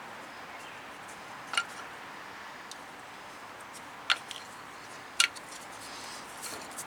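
Three short sharp clicks, a few seconds apart, from brake pads or parts being handled, over a steady background hiss.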